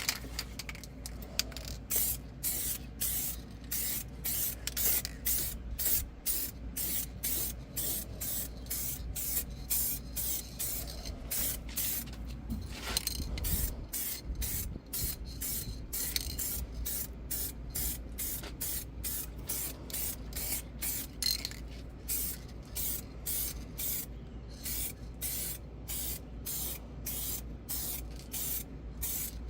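Paint being sprayed in short hissing bursts, about two a second, as a truck's frame rail and engine-bay parts are painted.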